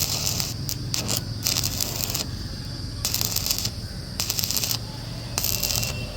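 Electric arc welding crackling in short bursts, about half a dozen quick tack welds each lasting around half a second, over a steady low hum.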